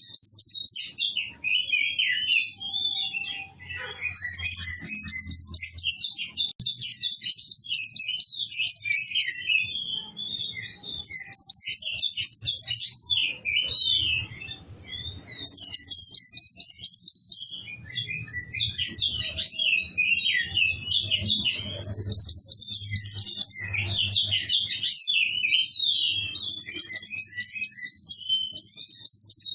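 Small songbird sold as a 'kowul' singing continuously in full voice: high, very fast trills of about two seconds each, repeated several times, with tumbling chirps between them. A faint low rumble runs underneath.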